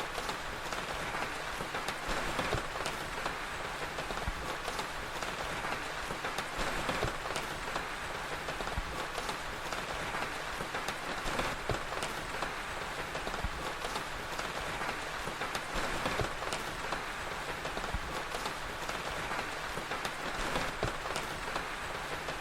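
Steady rain falling, an even hiss, with scattered short sharp crackles of a wood fire through it.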